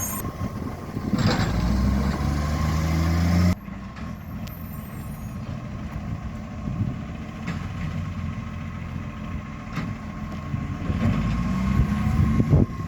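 Vehicle engine with an exhaust leak running: held at higher revs for a couple of seconds, then cutting abruptly to a lower, steadier running sound that swells again near the end.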